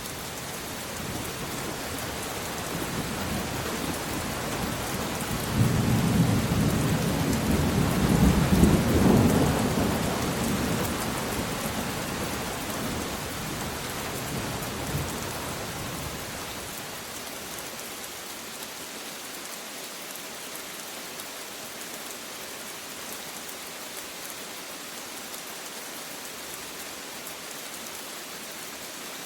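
Steady rain falling, with a roll of thunder that swells a couple of seconds in, peaks after about six seconds and rumbles away by about sixteen seconds, leaving the rain alone.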